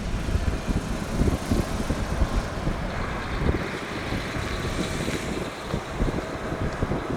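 Jet engine noise from a Boeing 747-8F's four General Electric GEnx turbofans on approach, a steady rushing roar with faint whining fan tones, mixed with wind buffeting the microphone.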